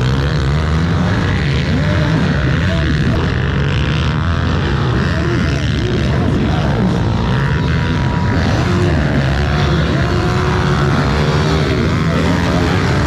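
Several pit bike engines running together on a track, their pitches rising and falling with throttle as the bikes ride.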